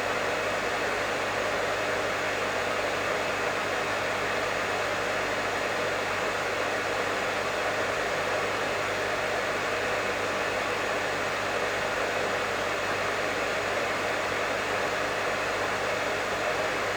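Professional hair dryer running steadily: an even blowing hiss over a low, constant motor hum, with no change in pitch or level.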